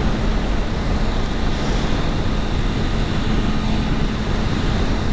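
Wind rushing over the microphone on a moving motorcycle, with the Suzuki GSX-R600's inline-four engine running at a steady cruise underneath as a constant hum.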